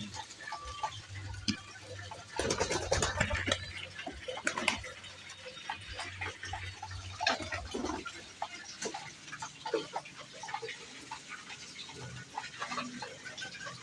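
Irregular scrapes and clicks from domestic pigeons moving about in their loft, with a low hum in places.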